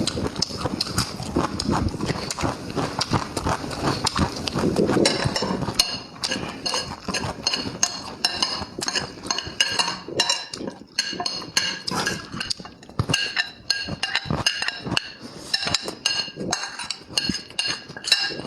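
Eating sounds: rapid chewing and mouth smacking, with utensils clinking against dishes now and then.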